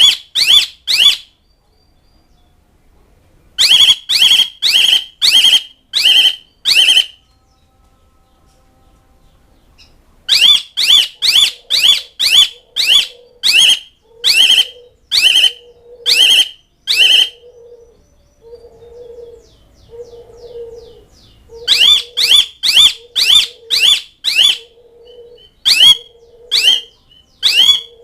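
Asian pied starling (jalak suren) calling: loud, sharp notes repeated about twice a second in bursts of six to eight, with pauses of a few seconds between bursts. From about the middle, a softer, lower note repeats steadily underneath.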